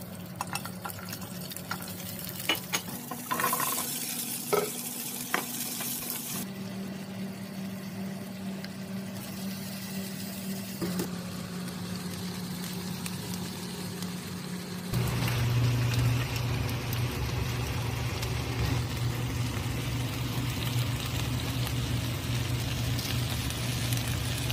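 Shrimp and bell pepper pieces stir-frying in a pan, sizzling, with sharp clinks in the first few seconds. A steady low hum runs underneath and shifts in pitch around 6, 11 and 15 seconds in, and the frying gets louder from about 15 seconds in.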